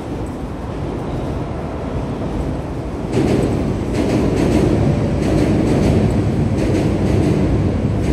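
A train passing close by: a rumble that builds, gets suddenly louder about three seconds in, then carries on with a run of clacks from the wheels over the rails.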